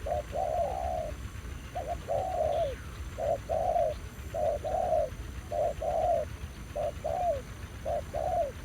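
Spotted doves cooing: a steady run of about seven two-part coos, a short note followed by a longer falling one, roughly one a second.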